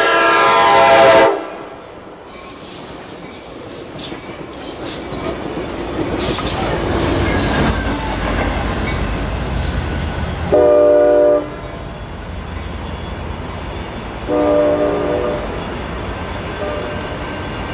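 A passenger train's K5LA five-chime air horn sounds a long blast that cuts off about a second in. The train then rumbles and clatters past over the rails, and the horn gives two short blasts, about 10 and 14 seconds in, the second one quieter.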